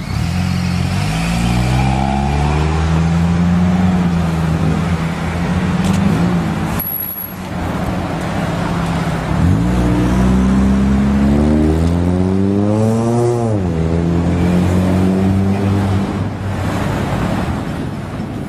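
Road traffic close by: motor vehicle engines running loudly. One engine's pitch climbs steadily from about ten seconds in, as when accelerating, then drops abruptly a few seconds later. The sound breaks off briefly about seven seconds in.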